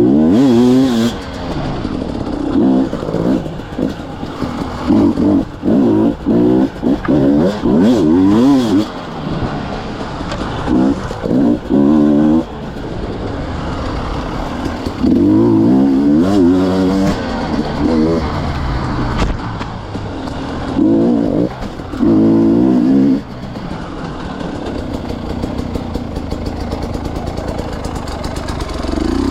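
KTM 250 EXC TPI two-stroke single-cylinder enduro engine revving in repeated short bursts of throttle, its pitch rising and falling, with lower running between the bursts. Over the last several seconds it settles into steadier, quieter running.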